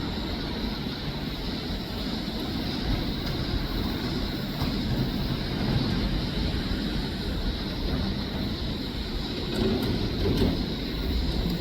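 Steady outdoor background noise by an urban stream: a low rumble of traffic with a steady high hiss above it, with no clear bird call.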